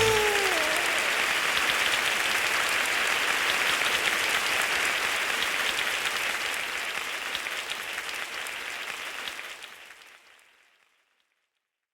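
Applause, a dense crackle of clapping that fades away to silence about ten seconds in.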